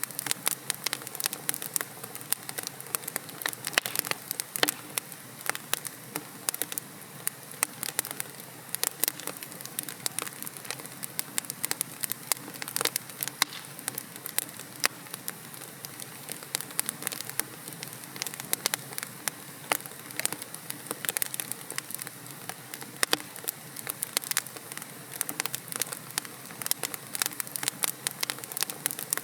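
Wood logs burning in a fireplace, crackling steadily: dense, irregular sharp pops and snaps over a soft hiss of flame.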